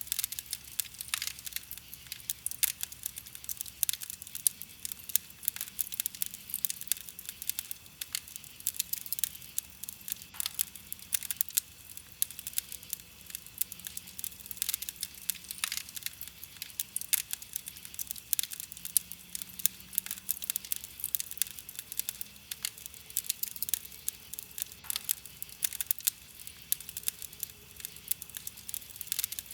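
Wood fire crackling: a dense stream of small snaps, with a louder pop every few seconds.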